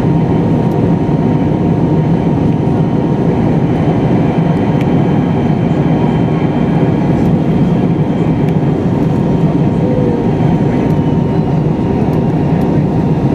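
Steady, loud rumble of an MD-83 airliner heard from inside the passenger cabin, engine and airflow noise with a thin steady whine above it.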